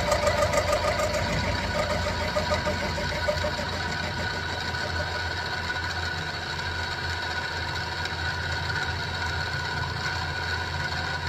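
Central Machinery (SIEG X2-type) benchtop mini mill running with its end mill cutting 1045 steel: a fast, even chatter for the first few seconds settles into a steady motor and gear whine over a low hum.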